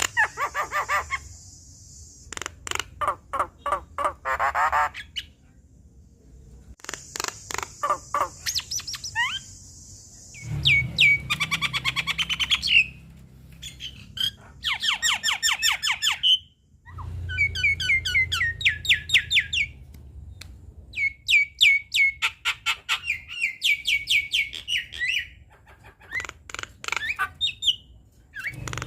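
Javan myna singing a varied song: fast runs of clicks and rattles, harsh hissing phrases, and short rising whistled notes, delivered in bursts with brief pauses between them.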